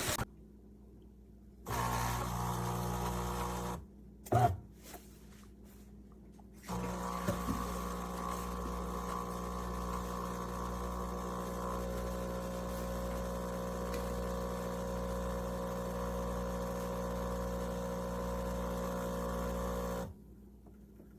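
A small electric motor running with a steady hum, first briefly about two seconds in, then for about thirteen seconds from about seven seconds in, with a short click between the two runs.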